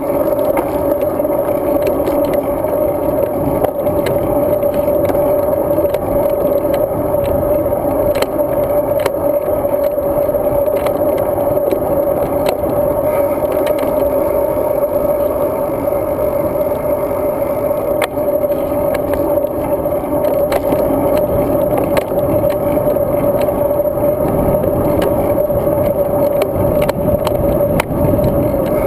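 Riding noise from a road bike picked up by a GoPro mounted on it: a steady rush of wind and rolling tyres with a constant hum, broken by frequent small clicks and rattles as the bike goes over bumps.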